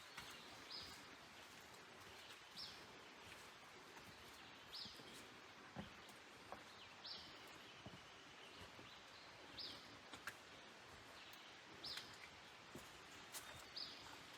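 A bird calling repeatedly in the woods, a short high note about every two seconds, faint over a steady background hiss.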